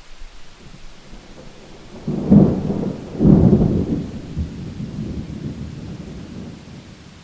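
A thunderclap breaking about two seconds in as two loud crashes a second apart, then rolling away as a fading rumble over steady rain.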